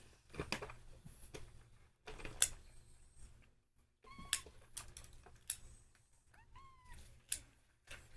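Ragdoll cat giving two short, quiet meows about four and six and a half seconds in, among a handful of sharp clicks and knocks.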